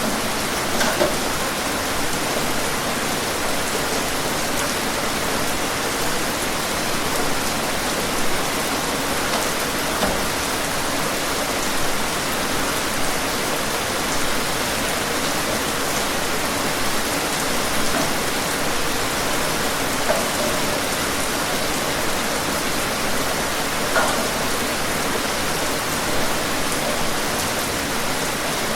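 Steady rain falling, an even hiss with scattered louder drop ticks now and then.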